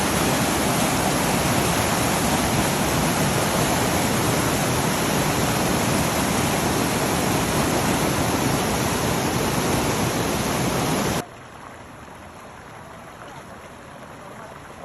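Floodwater rushing in a torrent, a loud steady rush of water. About eleven seconds in it drops suddenly to a much fainter flow.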